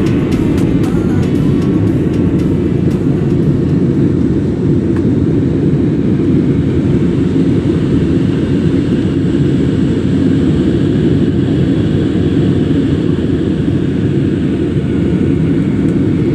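Aircraft engines running: a loud, steady rumble with a faint high whine over it, holding even throughout.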